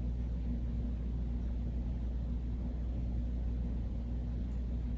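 Steady low background rumble, even in level throughout, with no distinct events.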